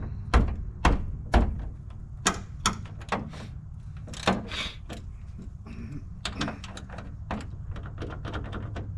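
Sharp metal knocks and clicks of hand work on a truck's hood: three loud knocks in the first second and a half, then a scatter of lighter clicks, over a steady low hum.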